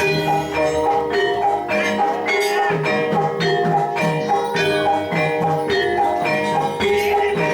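Javanese gamelan playing jathilan accompaniment: bronze metallophones striking a steady, repeating run of ringing notes in an even beat.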